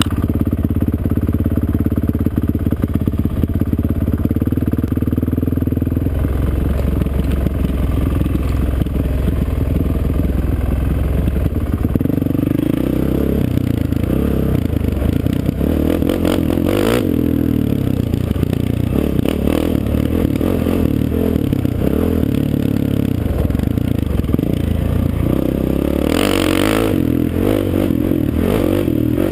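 Off-road racing engine running at a steady speed, then revving up and down repeatedly as the machine is ridden. There is a short scraping clatter a little before the end.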